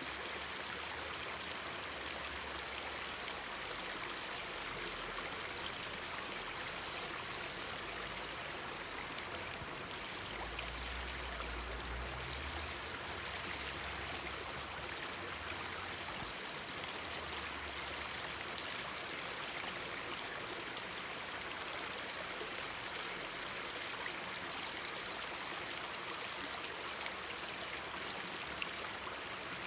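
Mountain stream babbling steadily over rocks, with faint crackles from a campfire scattered through it.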